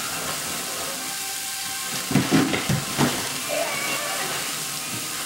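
Diced tofu sizzling steadily as it fries in a nonstick frying pan, with a few brief louder knocks about two to three seconds in.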